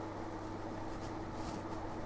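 Steady background hum with a faint constant tone and an even hiss; nothing starts or stops.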